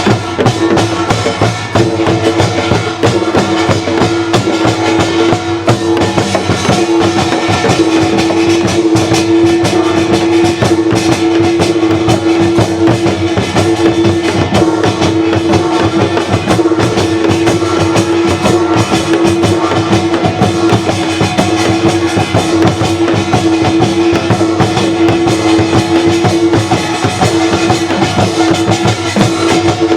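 Traditional Korean percussion music: drums and other percussion played fast and dense, with a steady held note sounding through it.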